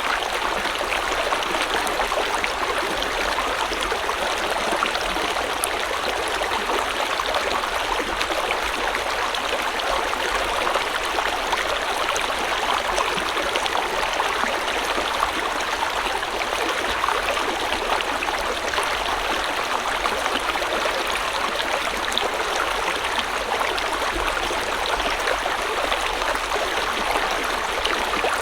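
River water flowing steadily over stones, a continuous rushing and splashing.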